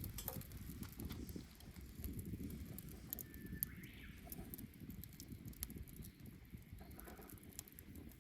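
Wood bonfire crackling: many sharp pops and snaps over a steady low rumble of burning, with a brief high whistle about three and a half seconds in.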